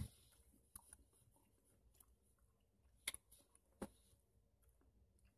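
Near silence broken by a few faint, short mouth clicks: a denture wearer chewing a rubbery green apple gummy candy that will not chew up.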